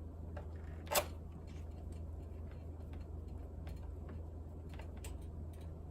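Small clicks and taps of screws and parts being handled on a laptop's plastic case, with one sharp click about a second in and fainter irregular clicks after it, over a low steady hum.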